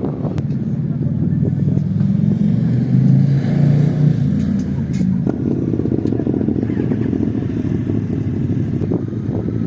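Aprilia RS 660's parallel-twin engine running under load on track. The note shifts higher about five seconds in.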